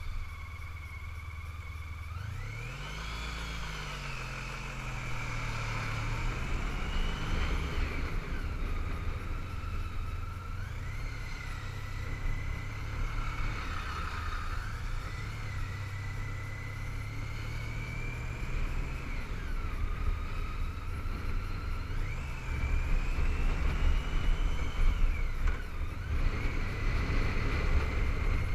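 Honda ST1300 motorcycle's V4 engine, revs climbing and easing off several times as it rides through bends, with wind rushing over the helmet microphone that grows louder near the end.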